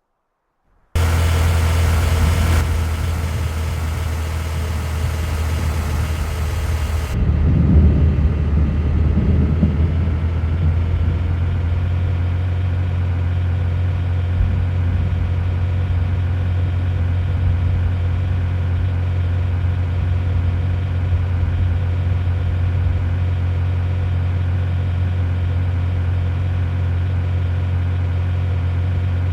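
Steady low drone of a motor vehicle, starting about a second in. A high hiss over it drops away about seven seconds in.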